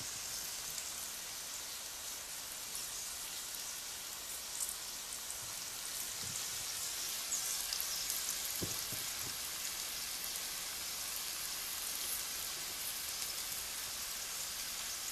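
Stuffed okra frying in oil in a nonstick pan: a steady sizzle with fine crackling, and a couple of soft knocks about six and nine seconds in.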